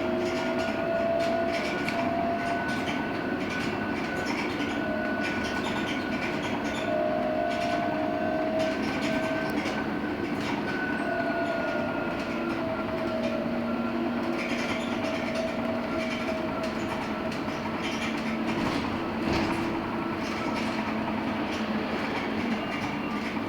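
LiAZ-6274 electric bus driving, heard from inside the cabin: the electric traction drive's steady whine, drifting slightly in pitch as speed changes, over continuous road and rolling noise with small rattles.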